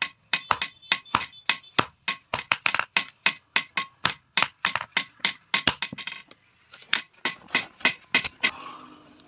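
Hand hammer striking metal in a quick, even rhythm of about four ringing blows a second, typical of a blacksmith forging steel stock for a try square. The hammering breaks off about six seconds in, then returns for a short run of blows before stopping.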